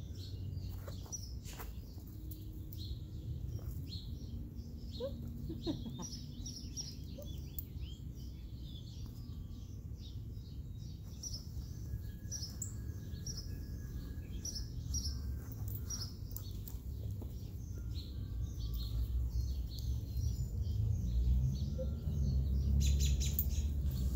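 Wild birds chirping, many short high calls scattered throughout, over a low rumble that grows louder near the end.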